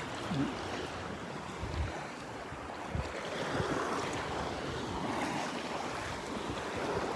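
Calm sea water lapping and washing in the shallows, with gusts of wind buffeting the microphone in a few low thumps.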